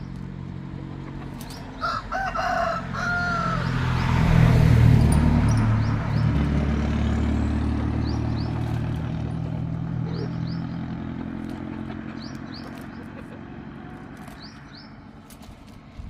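A rooster crows once, about two seconds in, in a broken call with a falling end. Under it runs a low, steady engine-like drone that grows loudest a couple of seconds later and then slowly fades away. Small high chirps come now and then.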